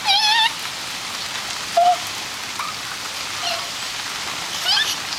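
Steady rain falling and pattering on surfaces. Over it come a few short, high, wavering vocal sounds from a child: the loudest right at the start, then several briefer ones.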